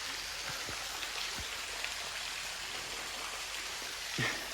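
Steady hiss of water, rain or running water, with a few faint low thumps in the first second and a half and a brief vocal sound near the end.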